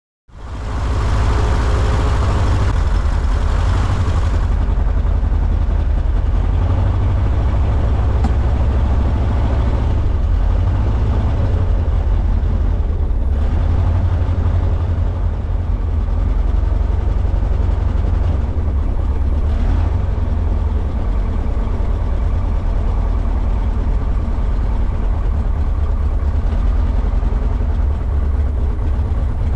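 Jodel DR1050's four-cylinder aero engine running steadily on a ground run, being checked after one cylinder showed soft compression.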